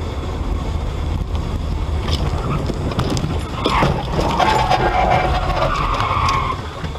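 Car driving noise: a steady low rumble of engine and road. About halfway through, a louder, harsh sound rises over it, lasts some three seconds, and stops shortly before the end.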